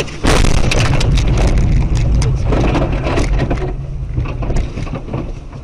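Car collision: a loud crunching impact about a quarter second in, followed by a run of rattling and scraping that fades, over the car's steady low rumble.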